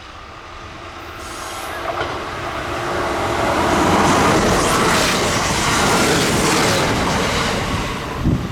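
Kintetsu electric train running past at speed. Its noise builds over the first four seconds, stays loud for about three more, then eases off near the end.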